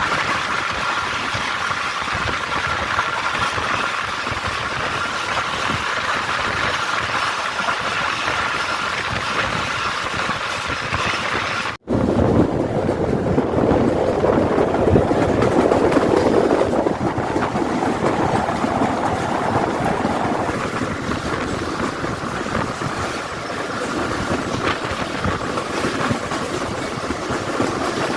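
Passenger train running on the rails: a steady rumble and rail noise. Nearly twelve seconds in the sound breaks off for an instant and resumes as a heavier, lower-pitched run of the train.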